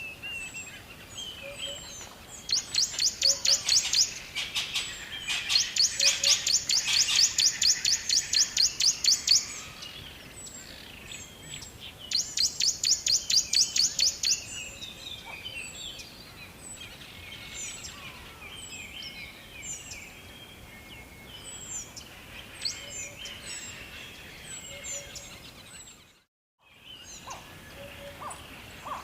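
Several birds chirping and singing over a steady rushing background of running water, with three bouts of a loud, fast, evenly repeated high chirping trill in the first half. The sound cuts out briefly near the end.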